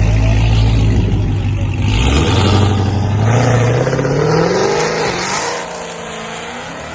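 A car engine running loudly and steadily, then accelerating away, its pitch climbing for a few seconds before it fades off.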